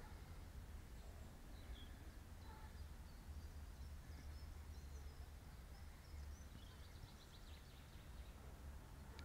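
Faint outdoor ambience: a steady low wind rumble on the microphone, with faint scattered bird chirps.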